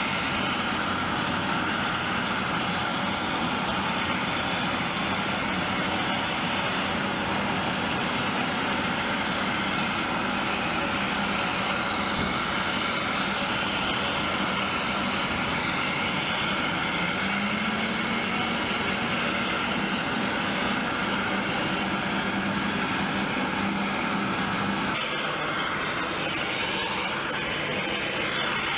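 Steady, loud engine and turbine noise with a high whine and a low hum that rises slightly partway through, changing abruptly near the end.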